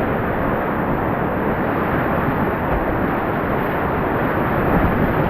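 Steady, even rush of river whitewater.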